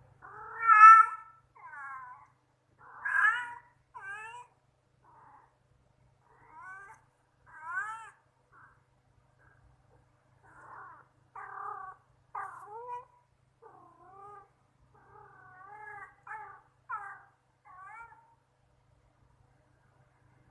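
Cats meowing: a string of about fifteen short meows over some eighteen seconds, the loudest about a second in, each call rising and falling in pitch.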